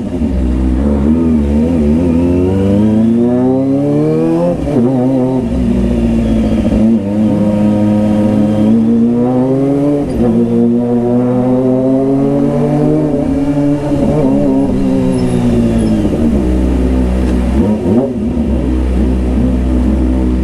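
Kawasaki ZX-25R's 250 cc inline-four engine pulling hard under full throttle, its pitch climbing, dropping sharply at a gear change, then rising and falling again several times.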